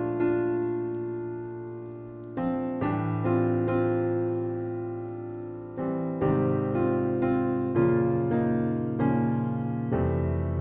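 Gentle background piano music, with soft chords struck every second or so and left to ring and fade.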